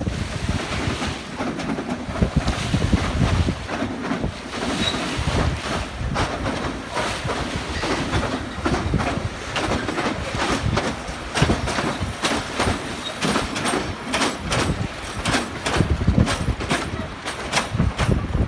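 Hythe Pier's electric train running along the pier, its wheels clacking over the rail joints with a steady rumble and many sharp knocks.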